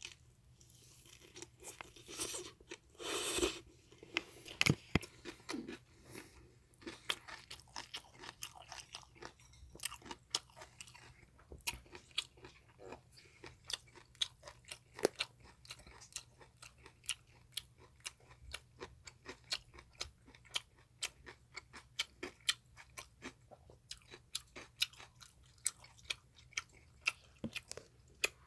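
Close-up mouth sounds of a person eating japchae, stir-fried glass noodles: wet chewing with frequent sharp clicks of the lips and tongue and some crunching of the vegetables. A few longer, louder noisy sounds come in the first few seconds.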